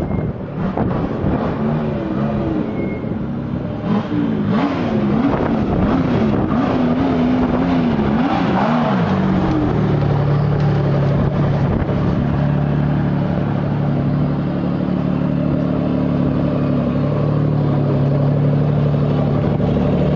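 Quad-turbocharged Jaguar V12 race engine running, its revs rising and falling again and again, then settling to a steady even drone from about halfway through.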